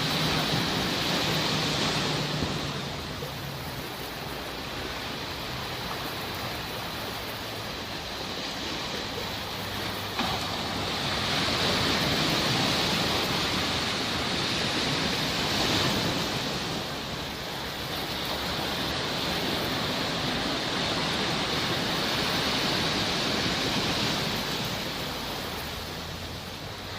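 Sea waves washing onto a shore, the surf swelling and ebbing every several seconds.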